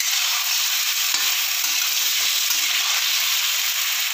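Chicken pieces sizzling steadily as they fry in butter and oil in an iron kadai, with ginger-garlic paste being fried off until its raw smell goes. A spatula stirs and turns them, with a few faint knocks against the pan.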